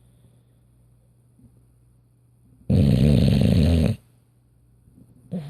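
English bulldog snoring in its sleep: a single loud, rough snore lasting about a second, starting a little past halfway, with quiet on either side and the next snore just beginning at the very end.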